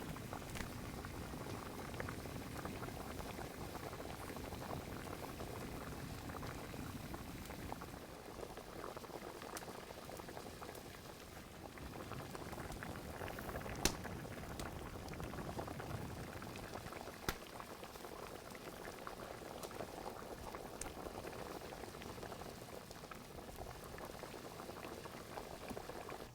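Pot of spicy braised chicken stew (dakbokkeumtang) bubbling steadily at the boil over a wood fire, with a couple of sharp clicks partway through.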